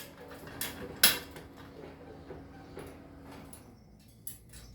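A cockatoo eating: a few sharp clicks and knocks, the two loudest about half a second and a second in, then fainter scattered ticks.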